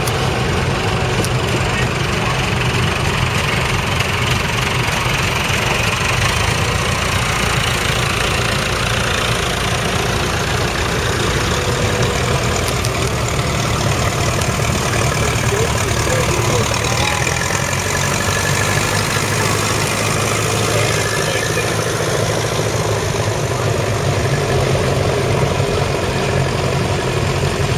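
Vintage tractor engines running steadily as the tractors move off at low speed.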